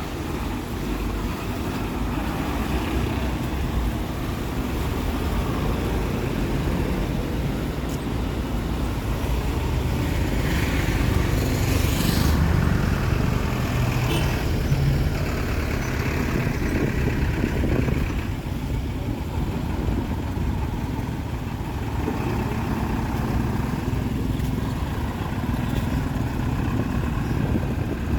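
Town street traffic: engines of passing road vehicles over a steady rumble, with one vehicle passing close and loud a little before the middle.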